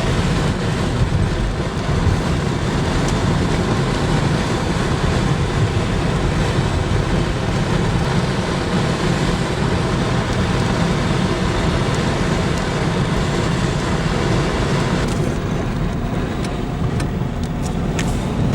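Steady road and engine noise heard from inside a moving car, mostly a low rumble. About 15 seconds in the higher hiss drops off, and a few sharp ticks follow near the end.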